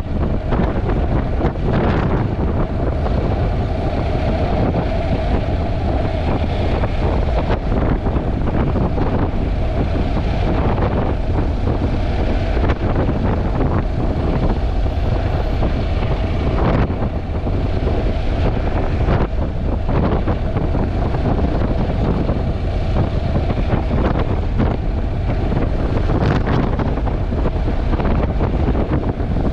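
Heavy wind buffeting the GoPro's microphone at riding speed, a constant rumbling roar, with the Honda NC750X motorcycle's running and road noise underneath.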